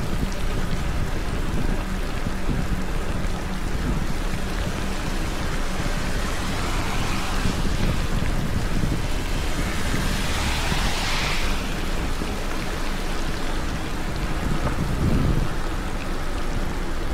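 Steady rain on the action camera during a wet trail ride, over a constant low rumble of wind and riding noise. A louder hiss swells up and fades away in the middle.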